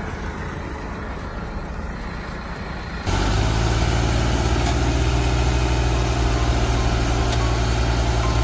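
Tractor engine running steadily; about three seconds in, the sound jumps abruptly to a louder, steady low engine note.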